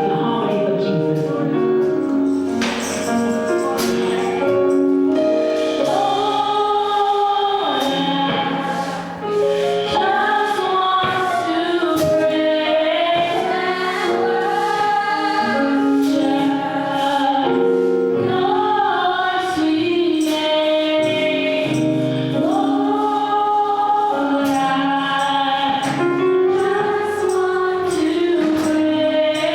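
Gospel choir singing a slow worship song with held notes over a steady percussion beat.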